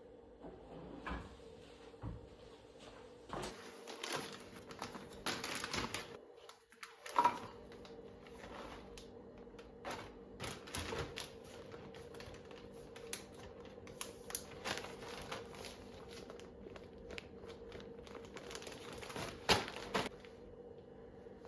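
Light clicks, taps and rustling of kitchen things being handled, with a few sharper knocks, the loudest near the end, over a faint steady hum.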